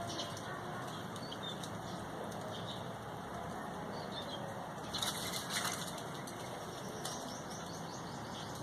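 Birds' wings flapping, with a louder flurry about five seconds in, and scattered short high chirps over a steady background rush.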